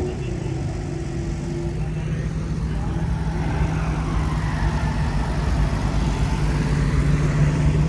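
A car engine running steadily at an even, low pitch.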